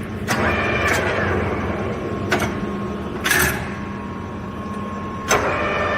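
Clausing Colchester geared-head engine lathe running, a steady gear whine with several held tones, broken by five sharp clacks. The whine changes pitch after the last clack near the end.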